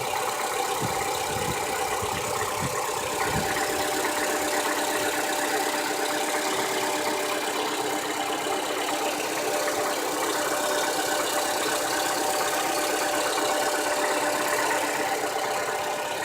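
2015 Toyota Camry engine idling steadily with a light knock, which the owner takes for cam gear rattle.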